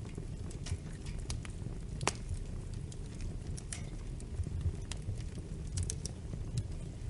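Wood fire burning, with a steady low rumble and scattered sharp crackles and pops, one louder pop about two seconds in.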